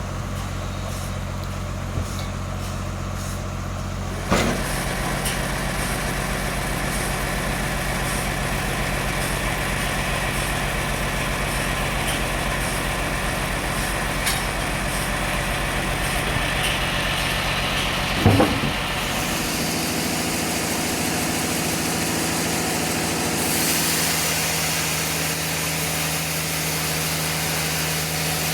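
Sawmill machinery engine running steadily, with a knock about four seconds in that brings a rise in hiss, and another knock about two-thirds of the way through, after which the engine's note changes.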